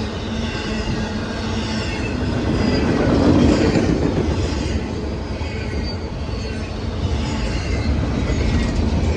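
Train rolling past close by, steel wheels rumbling on the rails with high squealing tones that slide down in pitch, swelling about three seconds in.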